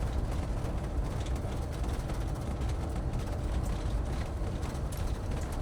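Motorhome driving along a highway, heard from inside the cab: a steady low rumble of engine and road noise.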